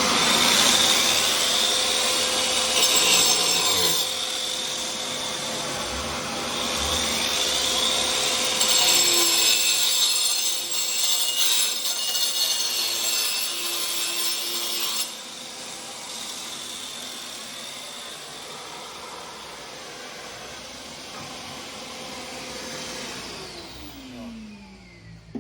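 Angle grinder fitted with a cutting blade and a shop-vacuum dust attachment, cutting through fibreglass: a harsh rasping cut over the motor's steady whine, with the vacuum drawing air. About fifteen seconds in, the cut ends and the grinder runs free, then winds down with a falling whine near the end.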